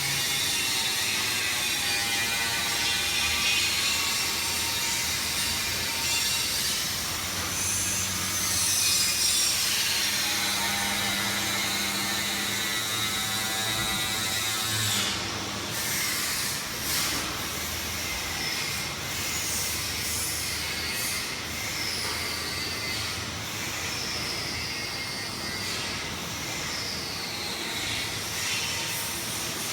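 PVC flexible-duct forming machine running, a steady mechanical rattle and hiss with a whine that rises and falls in pitch. Sharp clicks come in from about halfway.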